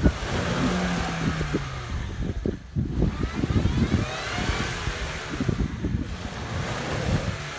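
Off-road 4x4's engine running and revving unevenly, with irregular low thumps and a faint rising whine in the middle.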